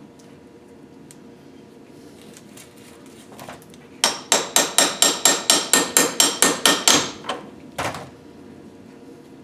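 Hammer striking metal in a quick, even run of about a dozen ringing blows, roughly four a second, then two weaker blows.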